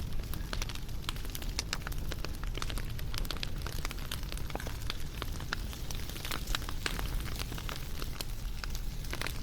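Wood campfire crackling: irregular pops and snaps, several a second, over a steady low rumble of burning.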